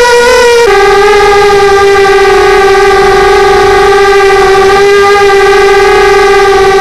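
QAV250 quadcopter's motors and propellers giving a loud, steady whine; the pitch drops a little about half a second in, then holds level.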